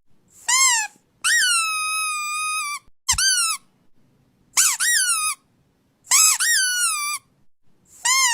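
A rubber squeaky toy squeezed over and over, about six high-pitched squeaks. Some squeaks are short and some are held for a second or more, and each starts with a quick upward jump in pitch.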